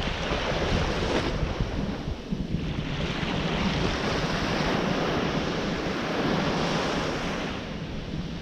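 Ocean surf washing in and out, swelling and easing, with wind buffeting the microphone.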